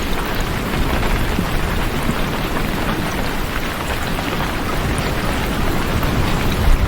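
Steady rain falling, a dense patter of drops over a low rumble.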